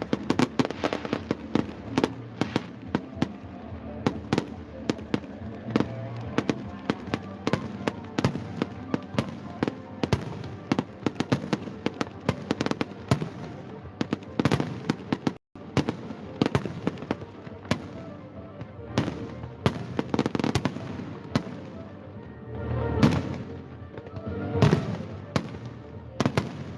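Fireworks going off in quick succession, many sharp bangs and crackles, with music playing underneath. The bursts grow heavier in the last few seconds.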